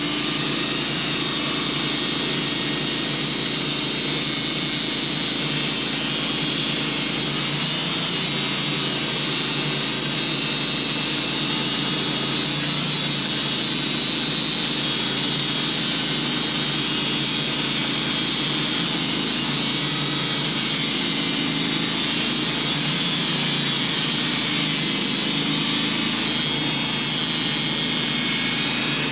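Sawmill running steadily under load as its blade saws through a large hickory log, a continuous engine drone with a high whine from the cut.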